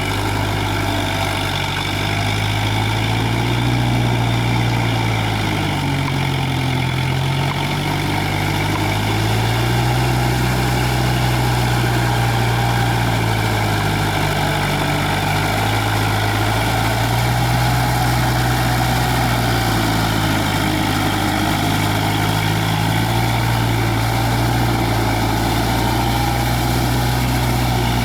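Kubota tractor's diesel engine running continuously, its engine speed rising and falling several times as it works through the paddy mud.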